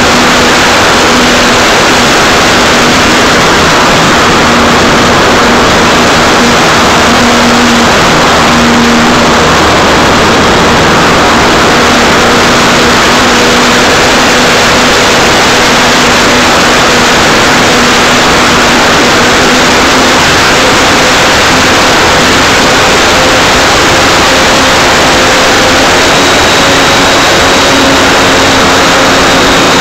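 Radio-controlled Art-Tech Cessna 182 model plane's motor and propeller in flight, heard through a keychain camera on its nose: loud, constant wind rush over the microphone with a steady propeller hum that shifts slightly in pitch.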